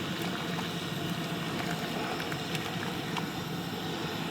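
Camp fire burning under a pot of menudo and rice: a steady low rushing noise with a hum, and faint scattered crackles.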